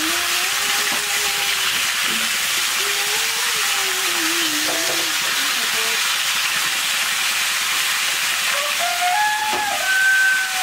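Pumpkin cubes frying in oil in a steel kadai: a steady sizzle, stirred now and then with a metal ladle.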